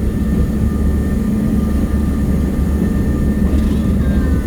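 Steady low rumble of a moving train, heard riding on an open caboose, with faint steady tones higher up.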